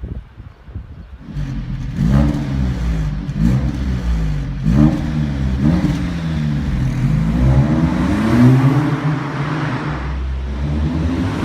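A car's four-cylinder engine revving, its pitch rising and dropping back several times after it comes in about a second in, then holding steadier near the end.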